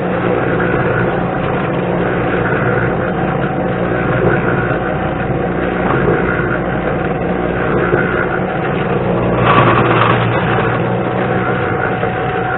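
Concrete mixer running steadily, its drum turning and churning a batch of concrete, with a brief louder rush about ten seconds in.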